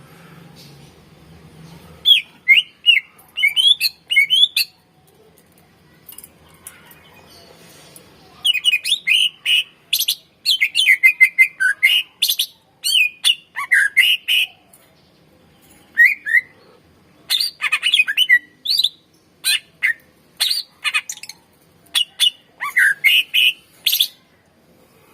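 Greater green leafbird (cucak ijo) singing loud phrases of sharp chirps and fast, twisting warbled notes. The phrases begin about two seconds in, pause briefly, then come in quick repeated bursts.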